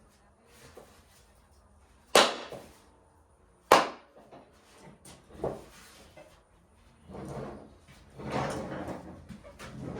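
Two sharp knocks about a second and a half apart, a lighter knock a couple of seconds later, then shuffling and scraping, from handling parts and tools while working on a mower.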